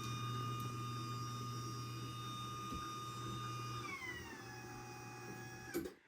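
Craftsman belt-drive garage door opener motor running on a close cycle, a steady hum with a whine. About four seconds in the whine drops in pitch as the motor slows, and near the end it stops with a clunk.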